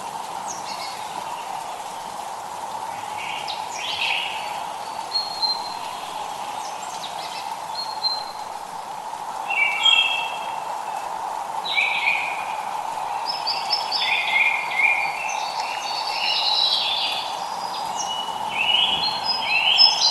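Several songbirds calling and singing in short chirps and phrases, busier in the second half, over a steady hiss of light rain.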